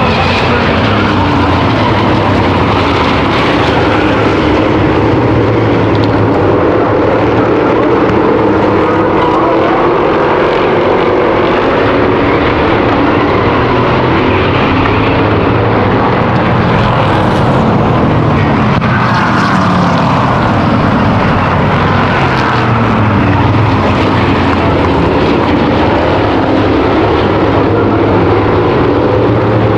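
A field of V8 stock cars and trucks racing, many engines running hard at once, their pitch rising and falling over and over as the cars accelerate and lift around the oval.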